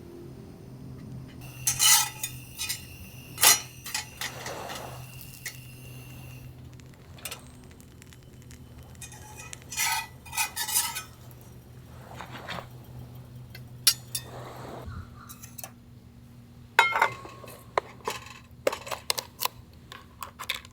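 Metal cookware and utensils clinking and knocking in a string of separate hits, a few of them leaving a brief ringing tone, over a steady low hum.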